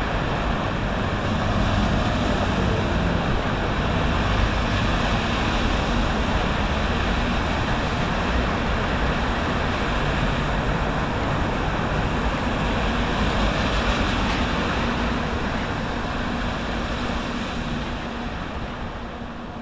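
Steady wash of rain and surf mixed with road traffic, with a faint low hum underneath, fading out near the end.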